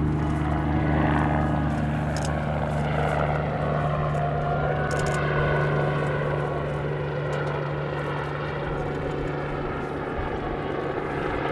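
NAMC YS-11FC's twin Rolls-Royce Dart turboprop engines running in flight, a steady low propeller drone with a thin high turbine whine above it.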